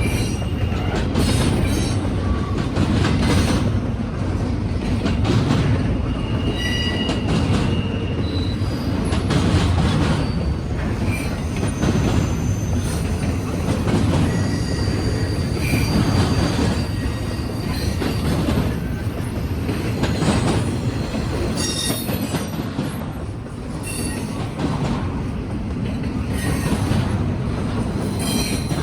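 Norfolk Southern freight train's cars rolling past at close range: a steady rumble with repeated clicks and clatter from the wheels over the rail joints, and brief high wheel squeals now and then.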